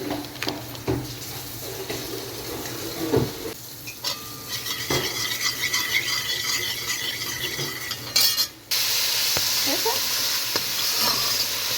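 A utensil clinking and scraping against a pot, then food sizzling in a hot pan; the sizzle cuts out briefly and comes back louder and steadier.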